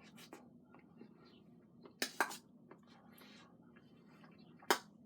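Cutlery clinking against a plate while eating: a few light clicks at the start, two sharper clinks about two seconds in, and one more near the end.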